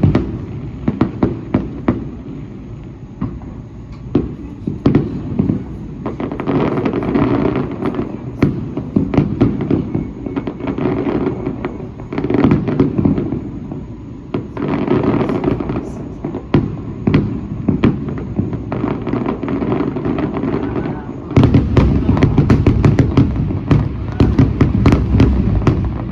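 Fireworks display going off in quick succession, with sharp bangs and crackles over a low rumble. About three-quarters of the way through it grows denser and louder.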